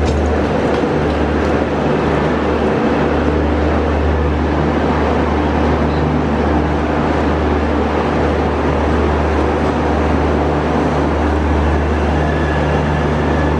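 Diesel-hauled passenger train running: a steady, loud low drone with a constant hum that does not rise or fall.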